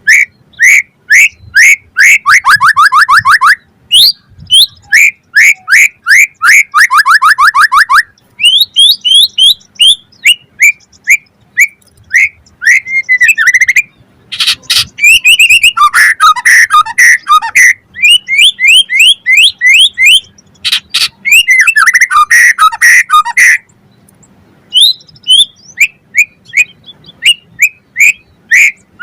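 White-rumped shama (murai batu) singing loudly: rapid runs of repeated whistled notes and fast trills, broken by short pauses, with a gap of about a second near the end.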